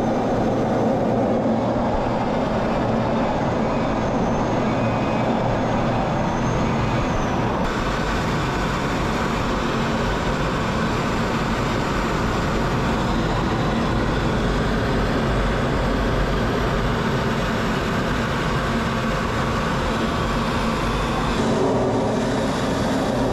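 Jet aircraft engines, loud and steady, as display jets fly during an airshow performance.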